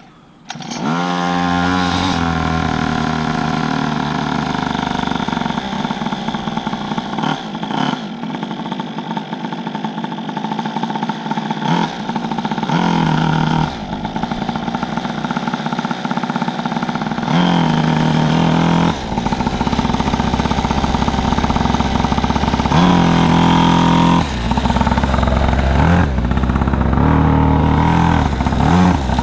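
Pocket bike's small gasoline engine revving up about a second in, then running steadily, with several short throttle revs along the way.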